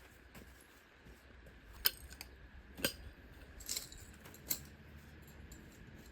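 A few light clicks and clinks of small hard objects being handled, four short ones spread over a few seconds, over a faint steady background hum.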